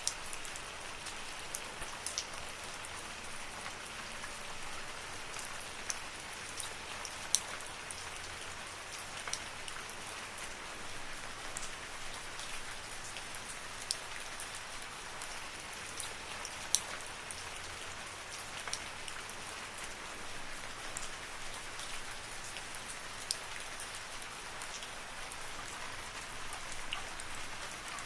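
Steady rain falling in a forest, an even hiss with scattered sharp ticks of individual drops striking close by.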